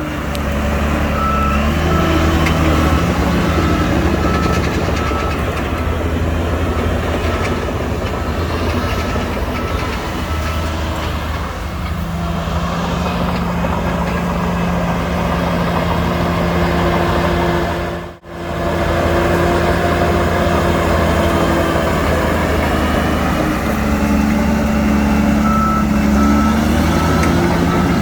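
Heavy diesel earthmoving machinery running steadily under load, with a reversing alarm beeping steadily for the first ten seconds or so and again near the end. The sound cuts out for a moment about two-thirds of the way through.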